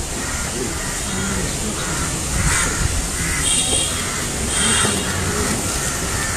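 A bird calls three or four times in a row over a steady low rumble.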